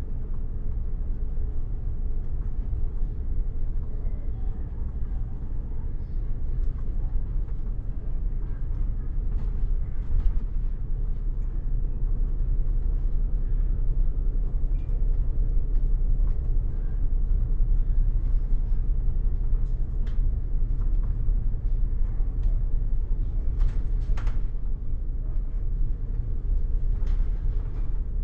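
Steady low rumble of a moving bus heard from inside the cabin, with scattered light rattles and clicks.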